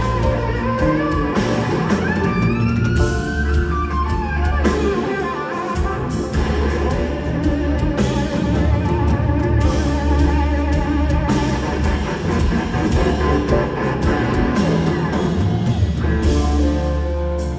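Live band playing a slow instrumental: electric slide guitar carrying the lead over bass and drums, its notes gliding up and down in pitch.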